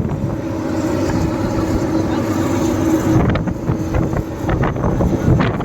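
Excavator's diesel engine running steadily, with a whine that stops about three seconds in, followed by a run of sharp knocks.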